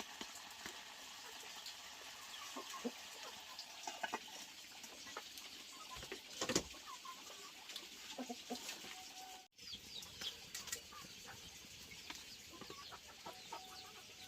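Chickens clucking, with scattered small clicks and rustles and one louder thump about halfway through.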